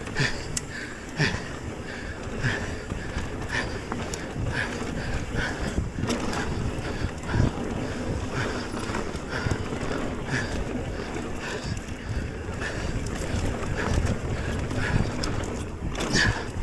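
Mountain bike riding a dirt trail: wind buffeting the microphone over a steady rumble of tyres on dirt, with frequent knocks and rattles as the bike goes over bumps.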